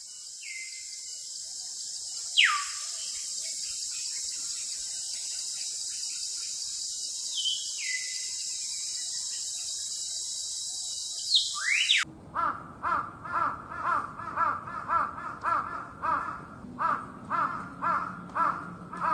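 A steady high hiss with three falling whistled calls spread through it. About twelve seconds in it cuts abruptly to a bird calling over and over, roughly two harsh calls a second.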